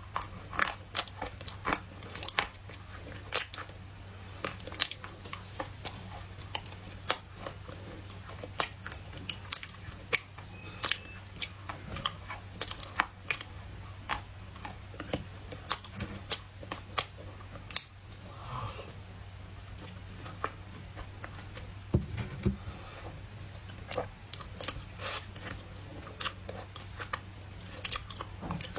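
Dry loess clay being bitten and chewed close to the microphone: irregular crisp crunches, several a second at times.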